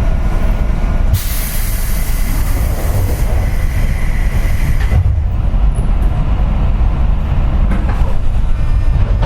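Low rumble inside a JR West 201-series electric train car, with a burst of compressed-air hiss about a second in that lasts around four seconds and then cuts off.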